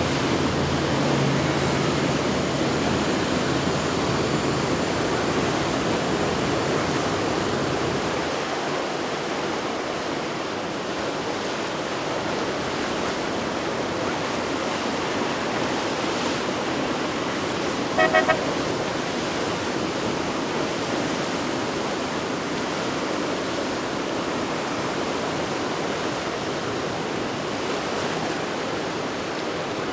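Steady rush of waves and wind, with a low boat-engine hum that fades out about eight seconds in. About eighteen seconds in, a horn gives three quick short toots.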